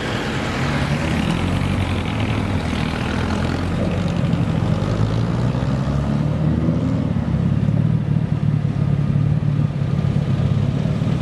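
A classic car's engine running steadily, its pitch rising a little partway through.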